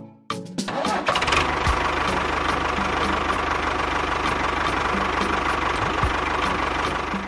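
An engine starts and runs steadily with a low rumble, then drops away near the end.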